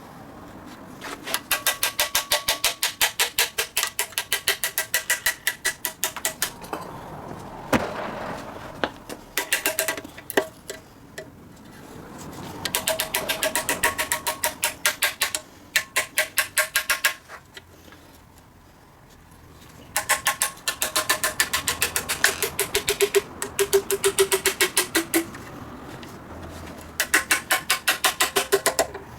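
Hand ratchet wrench clicking in runs of rapid, even clicks, with short pauses between them: bolts being turned out one after another on a Toyota 4A-GE engine.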